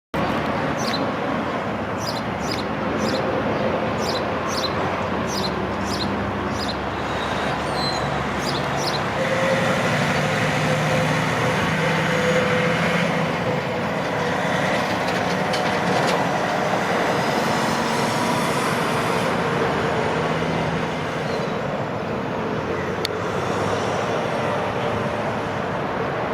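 Steady heavy-vehicle and road-traffic noise, with a run of short, high squeaks during the first several seconds.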